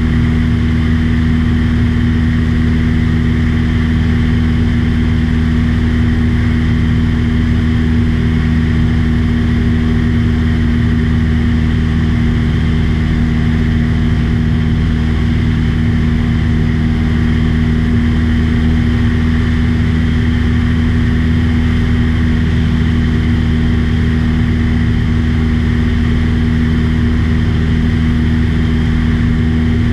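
Light aircraft's piston engine and propeller running at a steady cruise, heard from inside the cabin as a loud, constant drone with no change in pitch.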